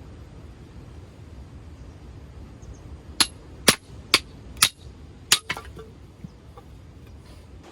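Five sharp metallic clangs about half a second apart, each with a brief high ring.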